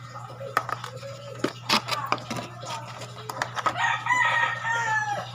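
A few sharp clicks and knocks, then a rooster crowing once, a long call held about a second and a half that drops at the end.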